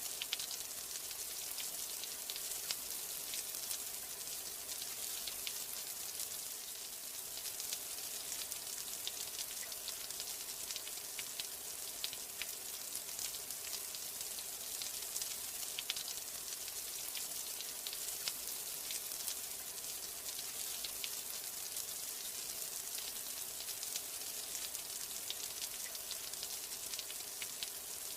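Steady rain falling, heard as an even hiss made of many small, crisp drop ticks.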